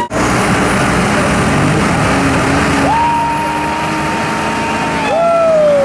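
Ford F-250 truck on tractor tires revving hard: the engine climbs sharply to high rpm about three seconds in, holds there, then drops off near the end, over a steady rushing noise.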